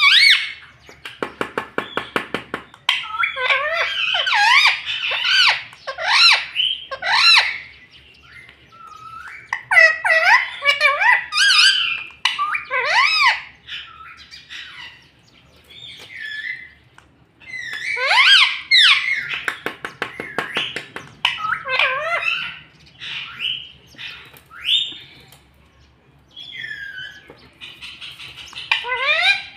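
Pet rose-ringed (green ringneck) parrot calling in quick bouts of sweeping, high chirps and squawks, with short pauses between bouts and a brief buzzy rattle about a second in.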